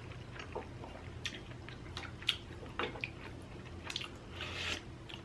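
Close-miked chewing of inari sushi (rice stuffed in fried bean curd pouches): soft wet mouth clicks and smacks scattered through, with a slightly longer squishy smack a little after four seconds in.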